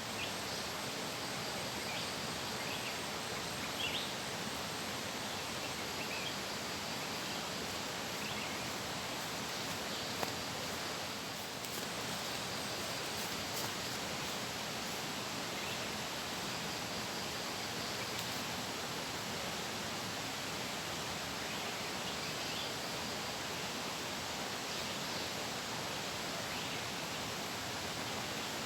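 Steady rushing of flowing water with an even noise that does not change, and a few faint small knocks, about four and ten seconds in.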